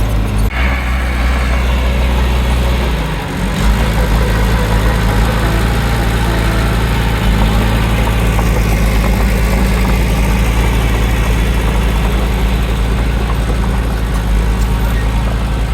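Heavy diesel engine of earthmoving machinery running with a steady low drone. The engine note dips and shifts briefly about three seconds in, then holds steady.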